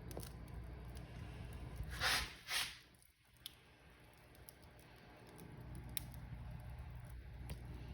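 Wood fire crackling in a fireplace: a low steady rumble with scattered sharp pops and crackles, and two brief hissing flare-ups about two seconds in, after which the rumble drops away and slowly builds back.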